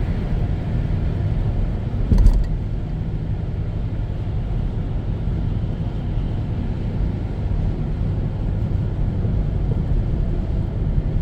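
A car driving, a steady low road-and-engine rumble, with a single thump about two seconds in.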